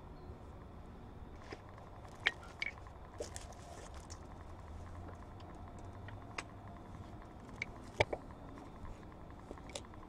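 Scattered light clicks and knocks of metal brake parts being handled and fitted by hand, the sharpest about two seconds in and again about eight seconds in, over faint steady background noise.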